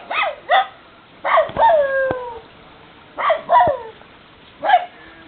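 Shiba Inu barking and yipping in short bursts, with pitch dropping on each call. It opens with a quick run of three yips, then gives a bark that trails off into a drawn-out falling whine, two more yips, and a single yip near the end.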